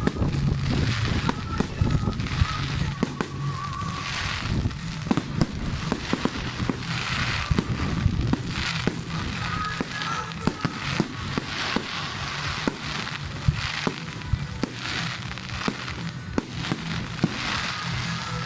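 Fireworks going off in quick succession, with many sharp bangs and crackles throughout, over music playing in the background.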